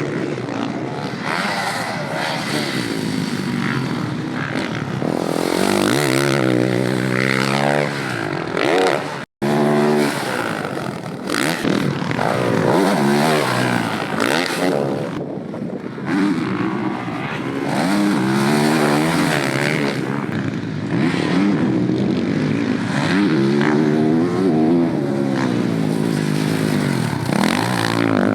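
Dirt bike engines revving up and falling off again and again as the bikes ride and hit jumps. There is a sudden break in the sound about nine seconds in.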